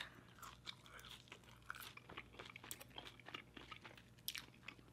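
Faint chewing of a french fry dipped in cheese sauce, with scattered small mouth clicks.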